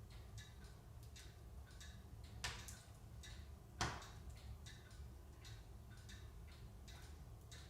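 Larch wood burning in a wood stove gives two sharp pops, about two and a half and four seconds in, over a steady light ticking of about two or three ticks a second.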